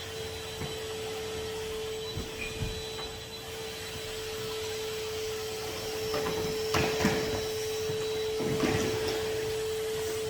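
Henry HVR200 620-watt vacuum cleaner running with a steady, high-pitched motor whine, broken by several knocks and scrapes, loudest about seven and nine seconds in.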